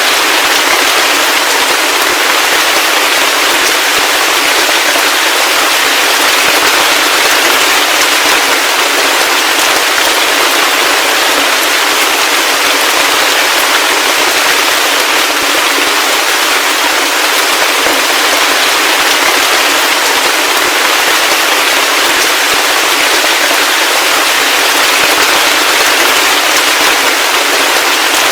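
Heavy rain falling steadily: a dense, even hiss of drops with a fine crackling patter and no low rumble.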